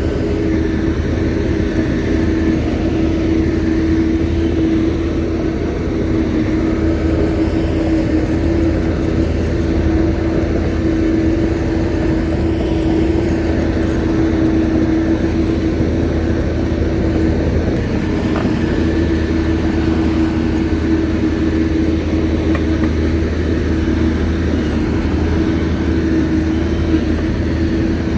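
Shantui bulldozer's diesel engine running steadily at an even pitch.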